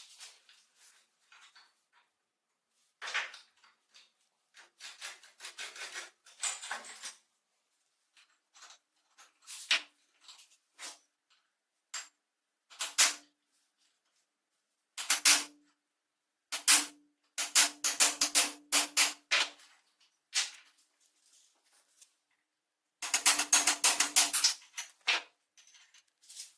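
Metal tools tapping and clattering on metal parts. Short groups of sharp clicks come with gaps between them, including two quick rapid runs in the second half. Some strikes carry a brief ringing tone.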